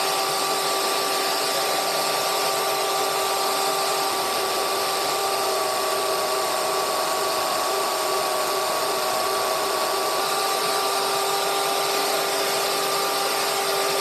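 Handheld electric power tool running steadily at a constant speed, with an even whine and a hissy edge, during metal fabrication of an engine mount bracket.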